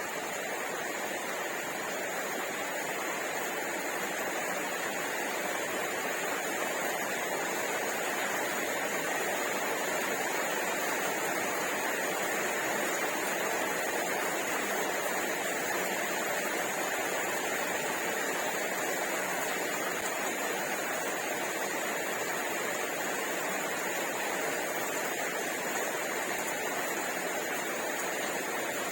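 A steady, even hiss with no distinct events standing out.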